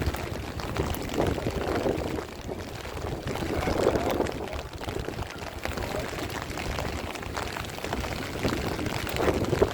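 Heavy rain with gusting wind, the wind rumbling on the microphone in surges that swell and fade.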